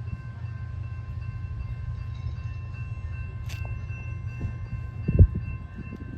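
Amtrak Northeast Regional passenger train rolling through: a steady low rumble with faint rhythmic knocks, a sharp click about three and a half seconds in and a heavy thump about five seconds in.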